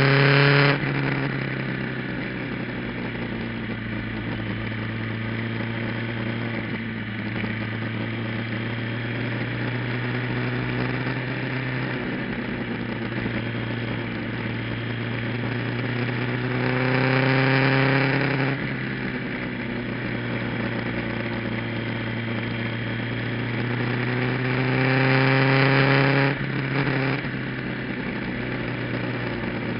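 Kawasaki GPZ900R's inline-four engine, fitted with an aftermarket muffler, ridden on track. Three times the pitch climbs under throttle, then cuts off sharply: just after the start, about 18 seconds in and about 26 seconds in. Between these it runs steadily.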